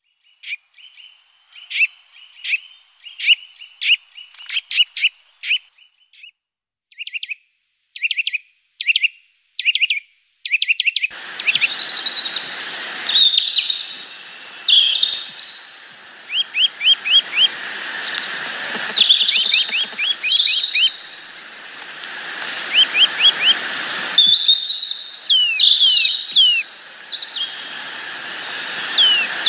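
Small songbirds calling at a feeder. The first stretch is a run of short, sharp chirps. About ten seconds in, a steady outdoor hiss comes in under more chirps, falling call notes and short trills.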